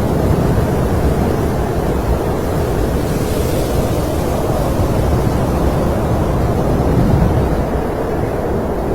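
Snowstorm wind blowing steadily: a low, even rushing noise.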